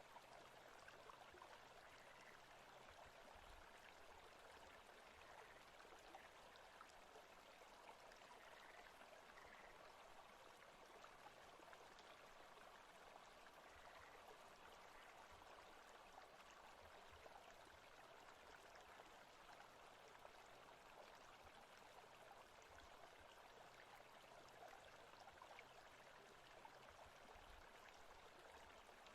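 Faint forest ambience track: a steady, even rush like a running stream.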